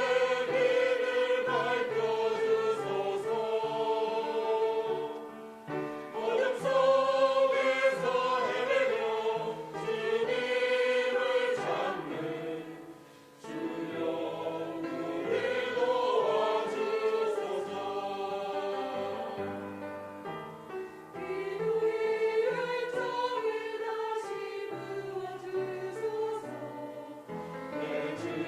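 Church praise team singing a worship song, several voices together in sustained phrases, with brief breaths between phrases about six and thirteen seconds in.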